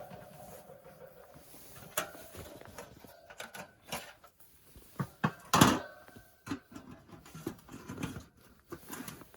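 Irregular knocks, taps and clatter of objects being handled, with one sharper knock a little over halfway through.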